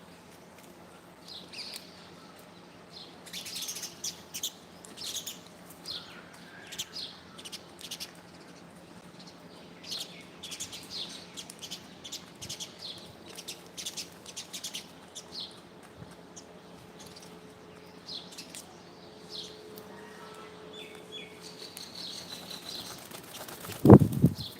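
Birds chirping in short, scattered high calls, with a loud low thump near the end.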